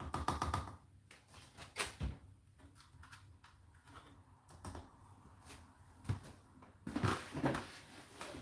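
Scattered knocks, clicks and rustling from things being handled, with a busier run of rustling and knocks about seven seconds in.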